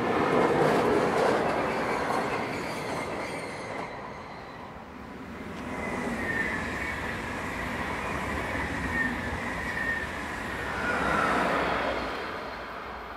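Two electric passenger trains passing at speed, one after the other. First a double-deck train goes by, loudest in the first couple of seconds and fading away. Then an SBB Re 460 electric locomotive hauling coaches approaches with a high steady singing tone and passes near the end.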